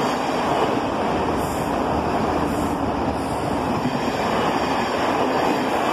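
A class 166 diesel multiple unit and a class 700 electric multiple unit passing close by at the same time, a steady, loud rumble of engine and wheels on rail.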